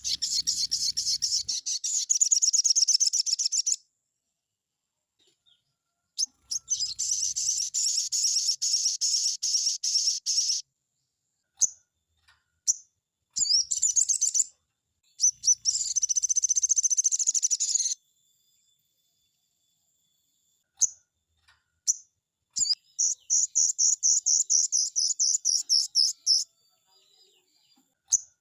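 Sogon bird singing full, rapid high-pitched trills in long bouts of a few seconds each. Single short chirps and brief silences fall between the bouts.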